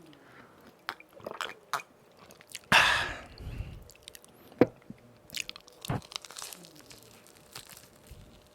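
A person biting into and chewing crispy fried donuts close to the microphone. There is one loud crunching bite about three seconds in, with scattered crisp clicks of chewing around it.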